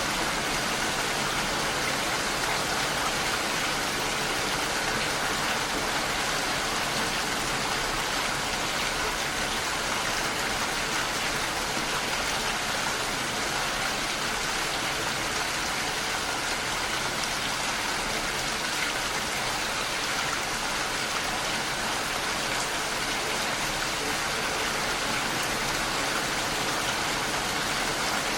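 Heavy rain falling on a window, a steady even hiss.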